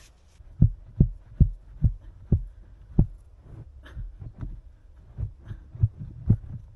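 A tool jabbing and striking into sandy soil, breaking through a tunnel between two pits: a run of dull low thuds, about two a second, with a looser gap in the middle.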